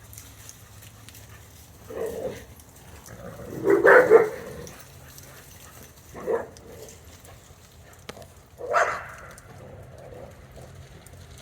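A dog barking four times, spaced a couple of seconds apart; the second bark is the loudest and longest.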